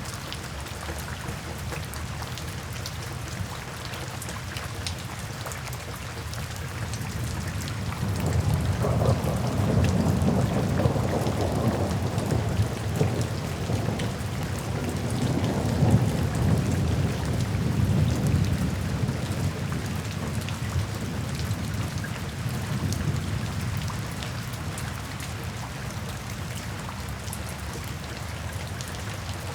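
Steady rain falling, with a long, soft roll of distant thunder that swells about a quarter of the way in, rumbles for several seconds and slowly fades.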